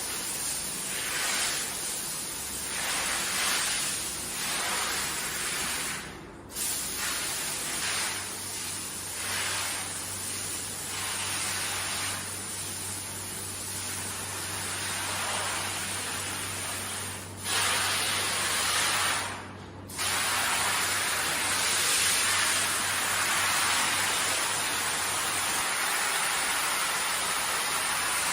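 Hand-held car wash sprayer spraying water onto a carpet: a steady hiss that surges unevenly, then cuts out briefly twice.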